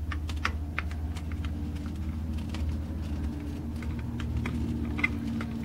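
Small nebulizer air compressor running with a steady low hum, while plastic parts of the unit click and tap as they are handled.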